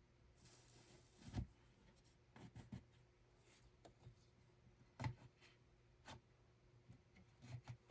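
Quiet handwork at a wooden hand loom: soft rubbing and scraping with a few irregular knocks, the loudest about five seconds in.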